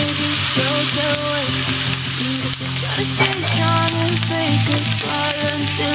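Diced shiitake mushrooms and dried shrimps sizzling in hot oil in a frying pan: a steady hiss, under background music with a melody.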